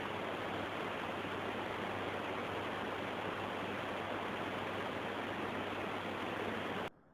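Heavy rain pouring down, a steady, even hiss that cuts off suddenly near the end.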